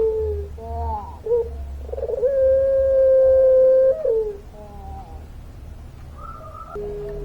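Puter pelung dove calling: short wavering, falling notes, then one long drawn-out call held at one pitch for about a second and a half, followed by a few more falling notes and a short higher note near the end. A low steady hum sits underneath.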